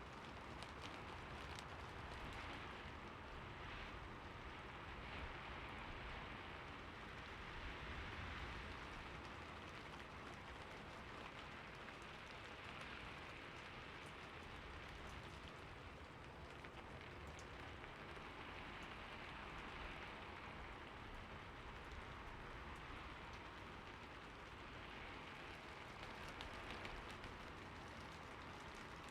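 Steady rain falling on a roof, a soft even patter of many drops that swells and eases gently every few seconds.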